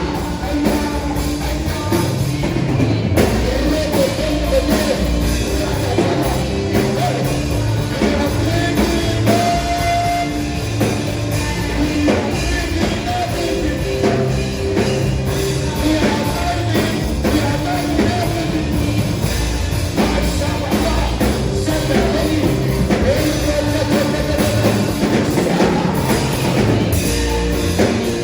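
Live worship music: a band with drum kit, bass and guitar playing steadily, with voices singing over it.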